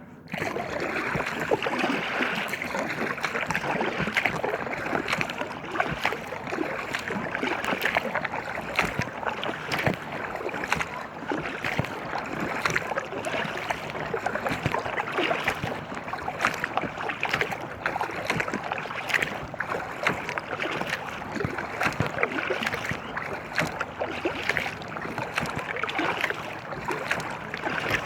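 Water splashing and lapping against an inflatable kayak as it moves on the river, a steady rushing with many small crackling splashes.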